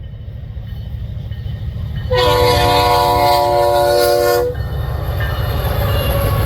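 Diesel freight locomotive's air horn sounding one long blast of about two and a half seconds, a steady multi-note chord that starts about two seconds in. Under it is the low rumble of the approaching locomotives, which grows louder before the horn sounds.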